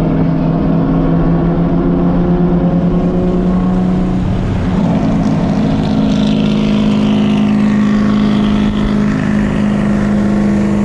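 Turbocharged Infiniti G37's V6 engine heard from inside the cabin, running at steady revs; about four and a half seconds in its pitch steps up and then holds.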